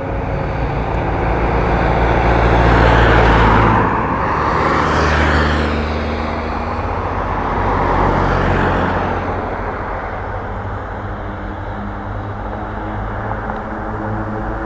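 Road traffic: motor vehicles passing close by, their tyre and engine noise swelling and fading several times before settling to a steadier lower rush.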